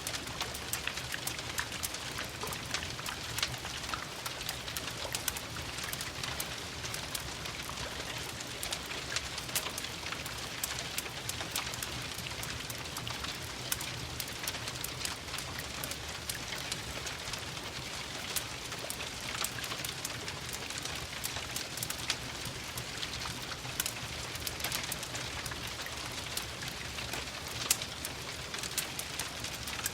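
Steady rain with many sharp, irregular crackles and pops from a wood fire in a fireplace.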